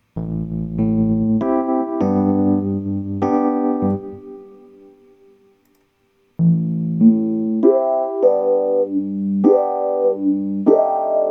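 Sampled Rhodes Mark I Stage 73 electric piano playing two short phrases of chords and notes. The first phrase rings out and fades away, and after a brief gap a second phrase begins.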